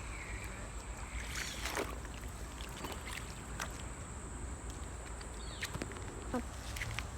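Scattered water splashes and small clicks as a hooked smallmouth bass is reeled in and landed from a creek, over a low steady rumble.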